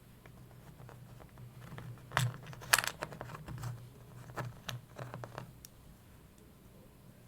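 A cluster of sharp clicks and rustling, like small hard objects being handled, loudest at about two seconds and three seconds in and dying away after about five seconds, over a faint steady low hum.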